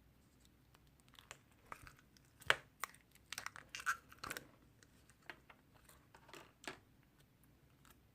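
Irregular handling noises: crinkling and tearing sounds with small clicks and taps, the loudest a sharp crackle about two and a half seconds in, then a cluster of them in the middle and a few more near the end.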